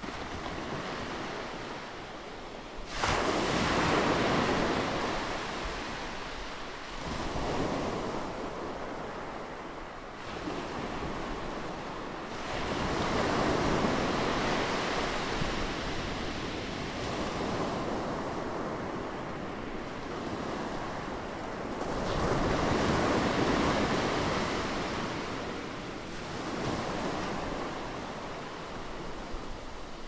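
Rough sea breaking against rocks: waves crash in and wash back in surges every few seconds over a constant rushing hiss of foam. The loudest crash comes suddenly about three seconds in, and there are two long, heavy surges near the middle and about two-thirds through.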